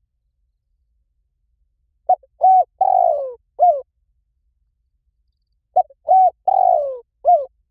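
Spotted dove song: two identical cooing phrases about four seconds apart, each two short coos, a longer coo falling in pitch, and a final short coo, with dead silence between phrases. It is a repeated dove-call recording of the kind used as a lure to draw spotted doves in.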